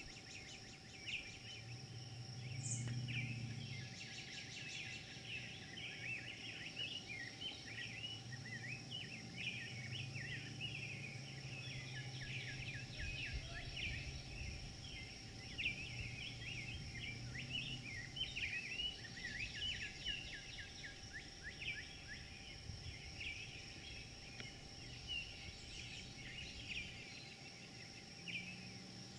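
Many small birds chirping at once in a dense, overlapping chorus, over a steady high-pitched drone and a low rumble that swells and fades.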